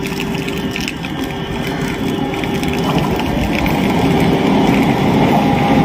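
Approaching passenger train and its locomotive: a rumbling, mechanical noise with faint steady hums, growing slowly louder as the train nears.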